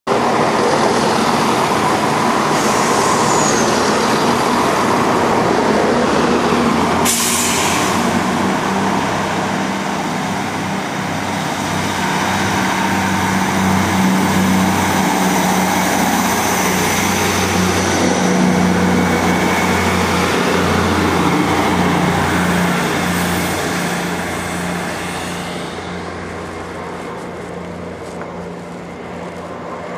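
Diesel train running at the platform, its engine a loud steady hum, with a brief sharp hiss of air about seven seconds in. The noise dies down near the end.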